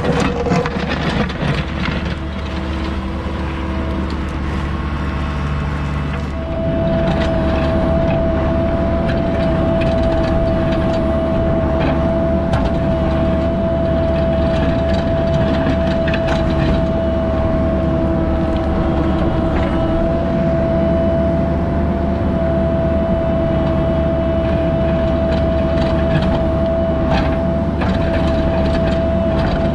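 Diesel heavy equipment running steadily, with a high steady whine over the engine note that gets louder about six seconds in, and scattered knocks and clanks.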